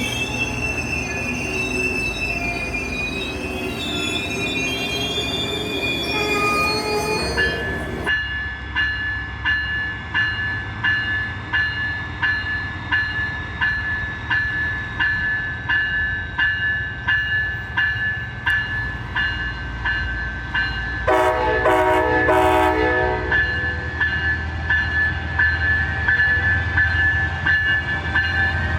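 Passing train: wheels squealing in several wavering pitches, then a steady rhythmic clicking of wheels over rail joints, about one and a half clicks a second. A horn blast of about two seconds sounds near the three-quarter mark.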